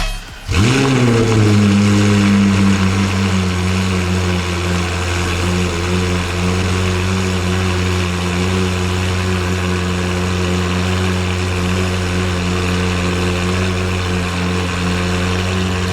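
Ferrari 458 Spider's naturally aspirated V8 through an iPE aftermarket exhaust: about half a second in, the engine note rises sharply, drops back and settles into a steady idle.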